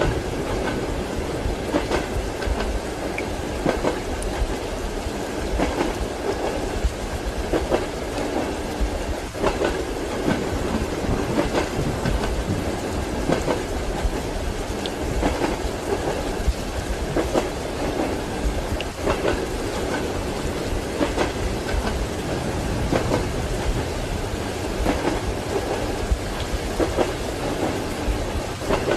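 Train wheels clattering over rail joints, a clack every second or two over a steady running rumble, with rain falling.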